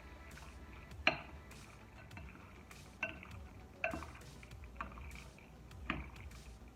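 A kitchen utensil clinking against a bowl while sliced raw chicken is stirred with spices and a little oil. There are about five ringing clinks roughly a second apart, the loudest about a second in.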